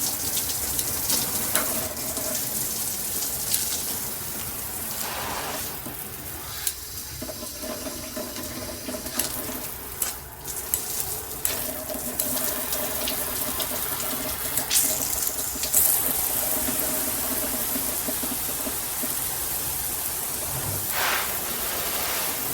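Water spraying from a handheld shower head, a steady rushing hiss.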